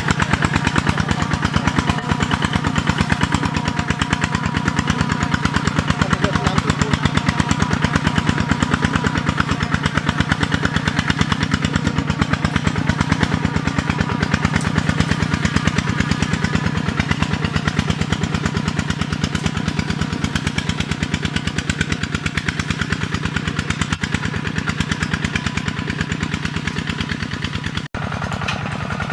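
Tractor engine running steadily under load while ploughing, a fast, even chugging of firing pulses. The sound cuts out for an instant near the end.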